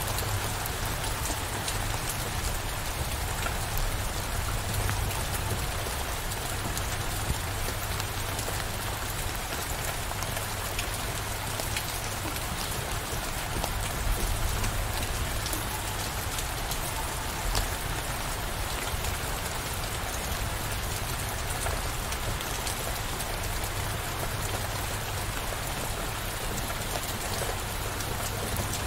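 Steady rain falling, with scattered sharper drop ticks and a steady low rumble beneath.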